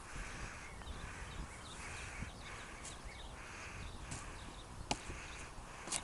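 A bird calling repeatedly outdoors, about once every second and a half, over a low rumble. Two sharp taps about a second apart come near the end.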